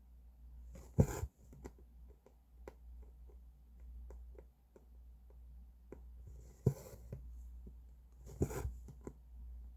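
Cross-stitch needle and thread worked through fabric: three short rasps as the thread is drawn through, about a second in, near the seven-second mark and again a couple of seconds later, with faint ticks of the needle piercing the cloth in between.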